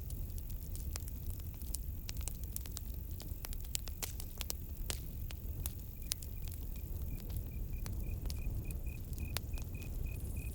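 Campfire crackling, with many irregular sharp pops over a low rumble of burning. From about six seconds in a cricket chirps steadily, about three high chirps a second.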